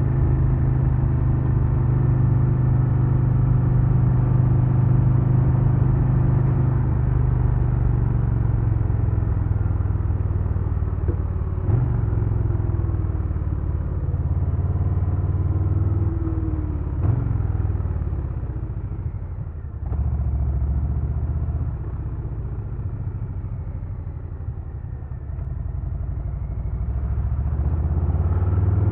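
A 2022 Harley-Davidson Low Rider S's Milwaukee-Eight 117 V-twin running while riding, steady at first, then easing off with two short rises in revs about twelve and seventeen seconds in, and building revs again near the end.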